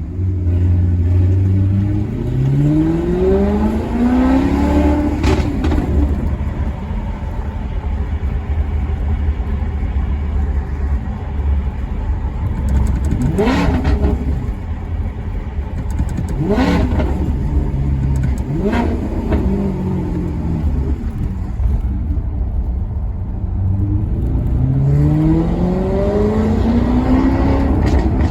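Maserati Quattroporte Sport GT V8 accelerating hard through the revs, then running at a steady low rumble. Around the middle it gives three quick throttle blips on downshifts, and near the end it accelerates again with the revs climbing.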